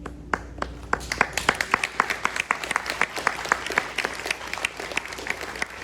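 Audience applauding: a few claps at first, quickly building into steady clapping, which thins slightly near the end. The last held note of the preceding music dies away about a second in.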